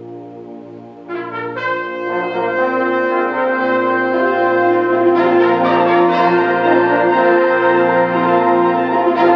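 Concert band playing. A soft held chord gives way about a second in to a strong brass entrance of trombones, trumpets and horns, and the music swells louder.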